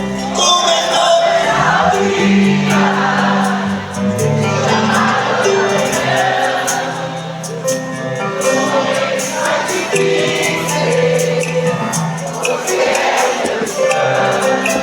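Live band music with several voices singing together, like a choir, over sustained chords and a steady beat.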